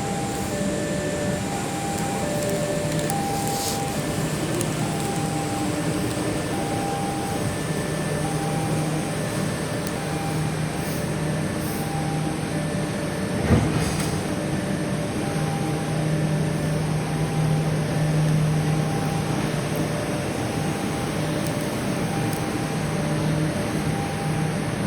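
Diesel locomotive running with a low, rising and falling rumble during a shunting move, with a repeating two-note beeping tone over it and one sharp knock about halfway through.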